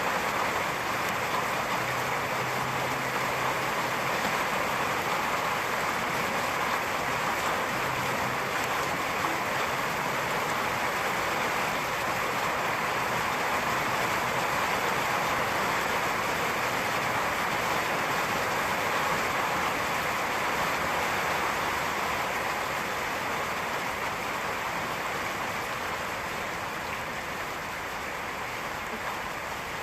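Rain falling steadily as a dense, even hiss, easing a little over the last several seconds.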